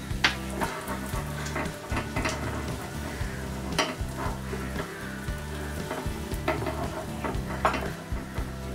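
Egg omelette sizzling as it fries in a pan, with a few sharp clicks as the pan is shifted on the gas burner.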